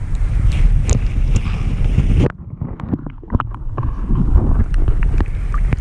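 Wind buffeting the microphone, a heavy low rumble that drops away abruptly a little over two seconds in and then builds back up, with scattered light clicks and knocks.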